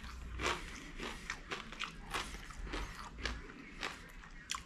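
A person chewing a mouthful of food close to the microphone, with irregular sharp chewing clicks a few times a second.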